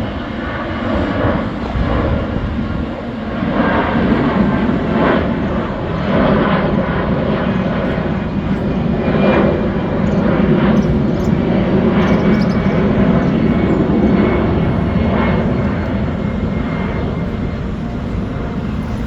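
Aircraft engine running steadily, a loud continuous drone.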